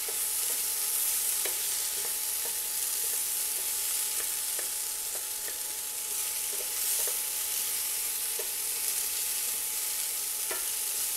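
Diced potatoes, onion and poblano strips sizzling in oil in a nonstick frying pan on high heat, a steady hiss, while a wooden spoon stirs them, making small scattered taps and scrapes against the pan.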